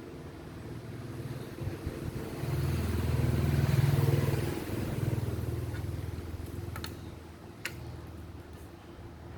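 A motor vehicle engine going by, growing louder to a peak about four seconds in and then fading away. Two light clicks come near the end.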